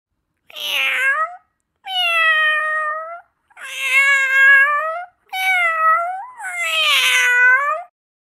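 Domestic cat meowing: four drawn-out meows with short pauses between them, the last the longest and wavering in pitch.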